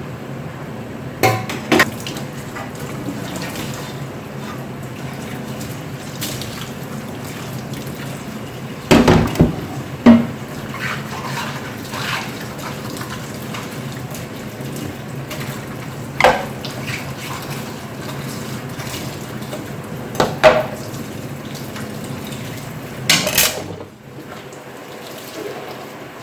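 Kitchen work at a sink: a steady rush, such as running water, with several sharp clinks and knocks of dishes and kitchenware set down or handled. The rush cuts off near the end.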